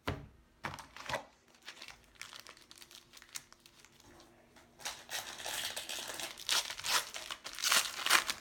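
Plastic trading-card pack wrapper crinkling as it is handled, with a few sharp crackles in the first second or so and a longer, denser stretch of crinkling over the last three seconds.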